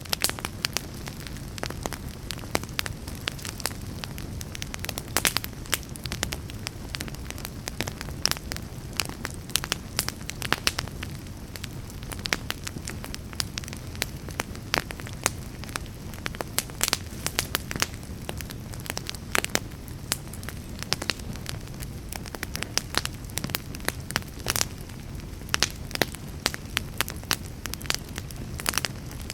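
Fireplace fire crackling: frequent irregular sharp pops and snaps over a steady low rush of flame.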